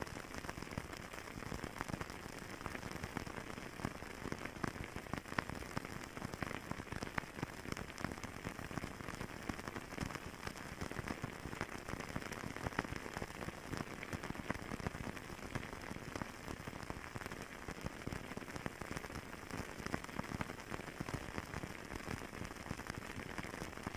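Fireplace crackling: a steady, dense patter of small pops and snaps, with an occasional louder crack.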